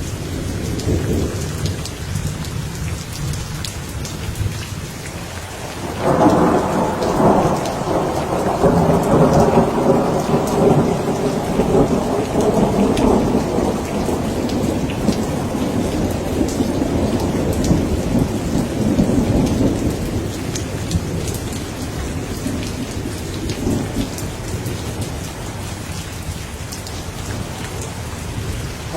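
Steady heavy rain with rolling thunder. A loud peal of thunder breaks in about six seconds in and rumbles on, slowly dying away over the next fifteen seconds or so, while the rain keeps falling.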